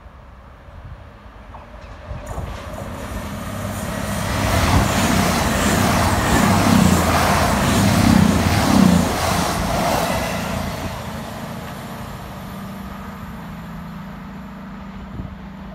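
CrossCountry diesel multiple unit passing through the station at speed. The engines and the rumble of wheels on rail build over a few seconds and are loudest about five to nine seconds in, then fade as the train draws away, leaving a steady low engine drone.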